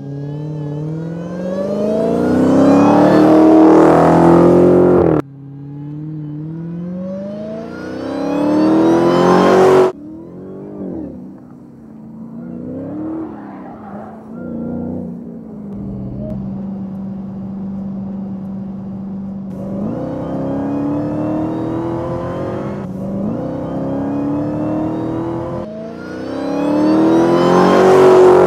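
Dodge Challenger V8 engine accelerating hard in several full-throttle pulls, each rising in pitch and cutting off abruptly. In the middle the engine holds a steady note for a few seconds, then it climbs again into a loud final pull near the end.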